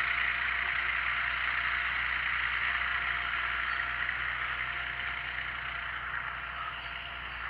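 Steady running-engine noise with a faint steady tone through it, slowly getting quieter.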